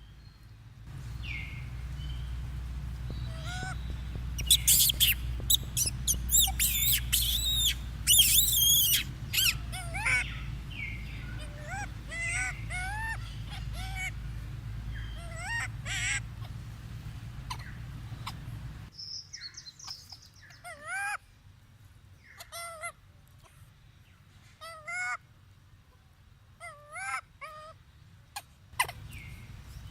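Monkeys calling: a run of shrill squeals and short rising-and-falling cries over a low hum. About two thirds of the way in the hum stops, and single wavering cries repeat every second or two.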